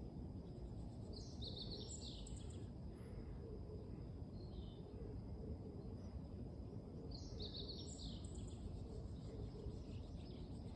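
Meadow bunting singing: two short, rapid, high song phrases about six seconds apart, faint over a steady low background rumble and a thin steady high tone.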